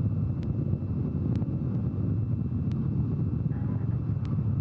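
Steady low rumble of a Soyuz 2.1a rocket's engines in powered flight, with faint sharp clicks every second or so.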